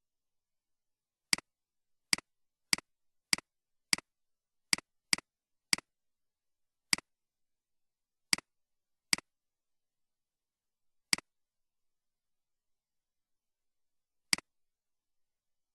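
Computer mouse clicks, about thirteen single sharp clicks at irregular intervals, bunched in the first six seconds and then spaced further apart, with silence between them.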